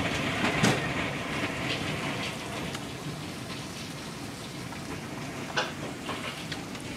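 Heavy thunderstorm rain falling steadily, a dense hiss that eases a little over the first few seconds, with a couple of sharp clicks, one about half a second in and one near the end.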